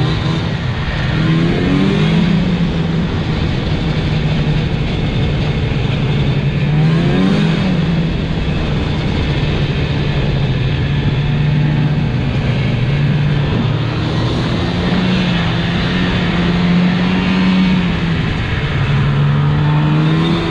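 Plow truck engine running under way over steady road rumble. Its pitch rises and falls several times as the throttle changes.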